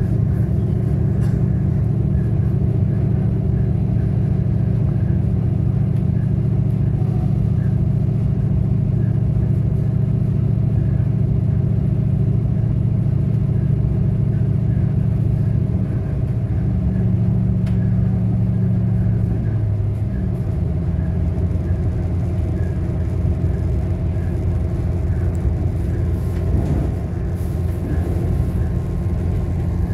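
Diesel railcar running, heard from inside the passenger cabin: a steady low engine drone with wheel and rail noise, its engine note changing about two-thirds of the way through.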